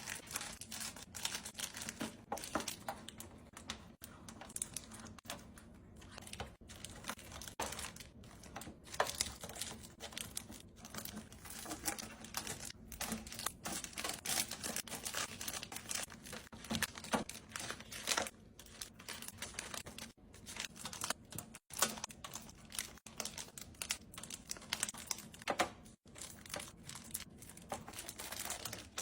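Plastic food packaging crinkling and rustling as groceries and containers are handled while stocking a fridge, with irregular sharp clicks and taps.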